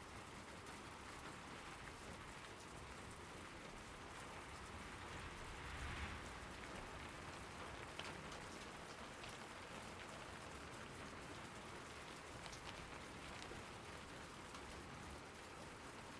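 Steady rain falling, with scattered sharper drop ticks, a brief louder swell about six seconds in and a single sharp tick about two seconds later.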